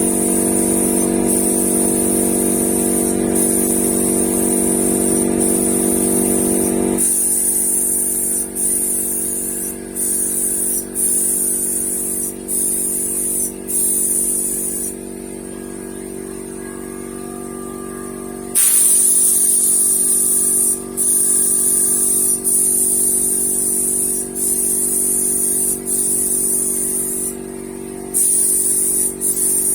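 Paint spray gun hissing in repeated passes, the trigger let off briefly between strokes and for about four seconds in the middle. A steady machine hum runs underneath.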